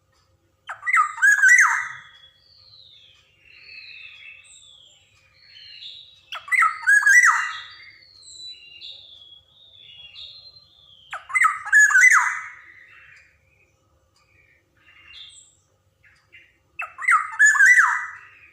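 Black-naped oriole (kepodang) calling: four loud calls about five seconds apart, each lasting about a second and a half, with fainter whistled notes in between.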